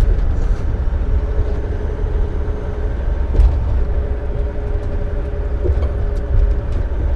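Dump truck driving at highway speed, heard from inside the cab: a steady deep engine and road rumble with a constant mid-pitched hum over it.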